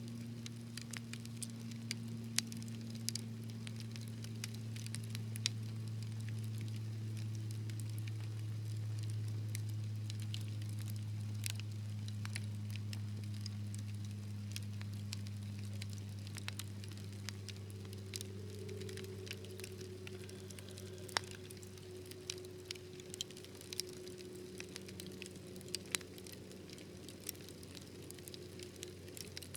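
Wood fire crackling, with frequent sharp irregular pops and snaps over a steady low rumble of the flames.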